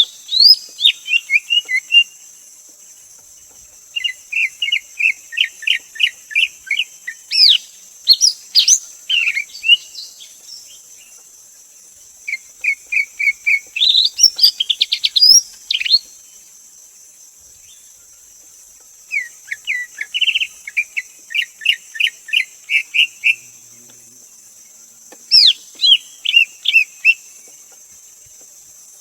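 Greater green leafbird singing: five phrases of quick repeated whistled chirps with short pauses between them, some starting with a sharp falling note. A steady high-pitched hiss runs underneath.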